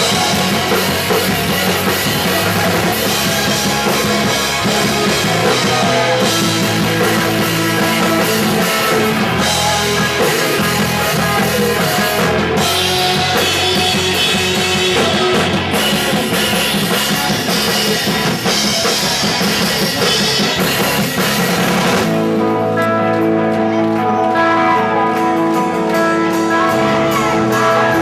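Punk rock band playing live, with electric guitars, bass and a drum kit. About 22 seconds in the drums and cymbals drop out, leaving the guitars holding sustained notes.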